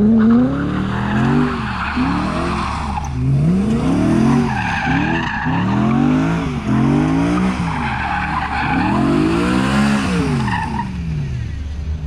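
Car engine revved up and down again and again, with tires squealing, as in a burnout.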